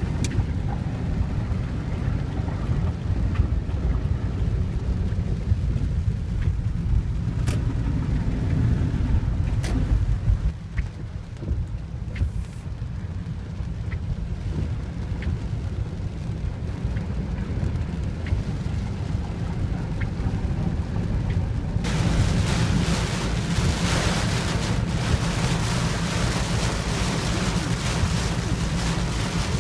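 Rainstorm: rain falling over a steady low rumble, with scattered faint ticks. About two-thirds of the way through, the rain hiss turns suddenly much louder.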